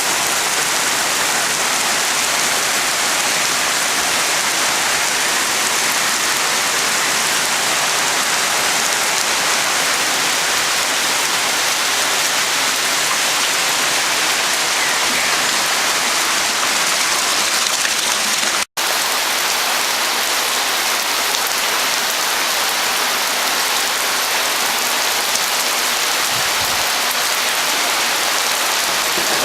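Torrential downpour: a steady, loud hiss of heavy rain pouring onto the street and surrounding surfaces. It cuts out for a split second about two-thirds of the way through.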